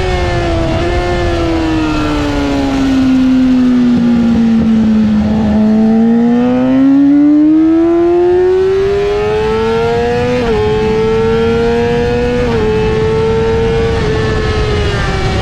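Yamaha R6's inline-four engine at high revs: the revs fall steadily for about five seconds, then climb again, with two quick upshifts about ten and twelve seconds in, before easing off slightly near the end. A steady rushing noise runs underneath.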